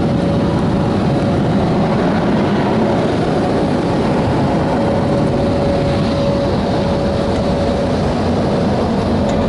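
Car wash tunnel dryer blowers (Proto-Vest) running: a steady, loud rushing roar with a faint, steady mid-pitched tone running through it.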